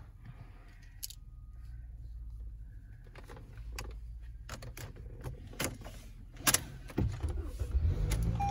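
A series of sharp clicks and knocks over a low steady hum, sparse at first and coming closer together and louder in the second half: handling noises on a car's body and fittings.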